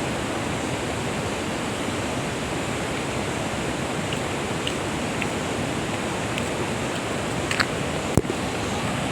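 Steady rush of flowing stream water, with a few faint clicks and one sharp click about eight seconds in.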